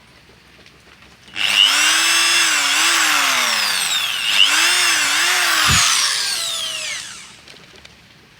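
Handheld electric power tool, likely a drill, running for about six seconds. Its motor whine dips in pitch and recovers twice as it bites into the work, then winds down near the end.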